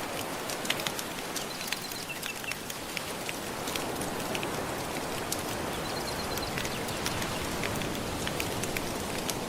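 Wood fire crackling with many small sharp pops over the steady wash of gentle ocean waves.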